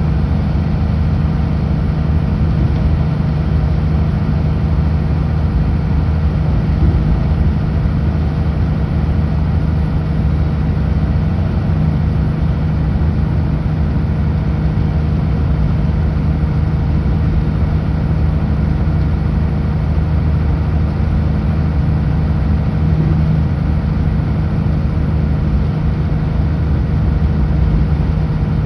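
Kenworth W900L truck's diesel engine running steadily at cruise, a constant low drone with road noise under it.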